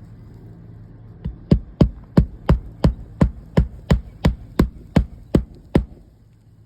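Hand hammer driving roofing nails into an asphalt 3-tab shingle: a light starting tap, then about a dozen quick, even blows, roughly three a second, that stop near the end. A steady low hum runs underneath.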